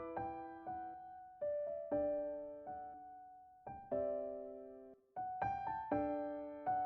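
Background piano music: soft notes and chords struck one after another, each fading out, with a short pause about five seconds in.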